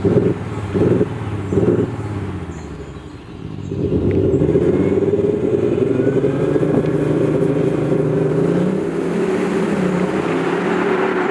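Audi S5 Sportback's 3.0 V6 turbodiesel revved in three quick blips, then after a short lull pulling hard under sustained acceleration, with rushing road and wind noise building near the end.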